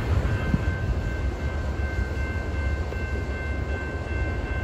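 A freight train's last cars rolling away with a low rumble, while the crossing bell at a grade crossing rings steadily in a high repeating tone.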